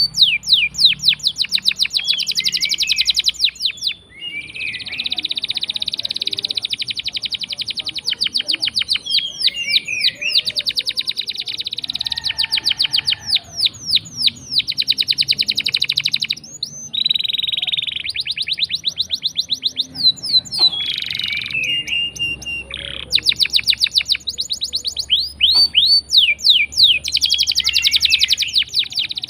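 Domestic canary singing a long, continuous song of fast trills and rolls. The song is made of rapidly repeated high notes, with only brief pauses between phrases.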